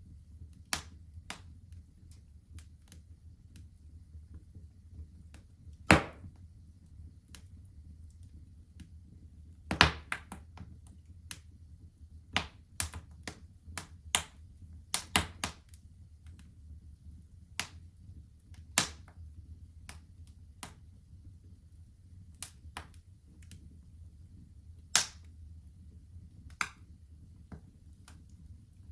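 Wood fire in a fireplace crackling, with irregular sharp pops and snaps over a low steady rumble; a few louder pops stand out, about six seconds in, near ten seconds and near the end.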